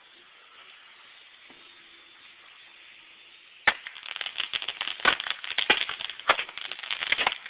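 A firework goes off about three and a half seconds in with a sharp crack, followed by a rapid, irregular run of crackling pops.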